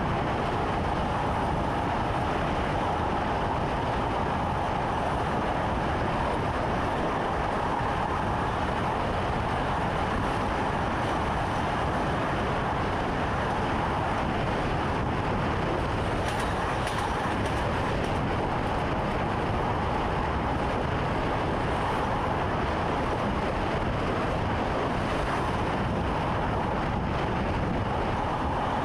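Train running steadily, heard from inside the driver's cab: an even rumble of wheels on rail with a steady mid-pitched hum over it.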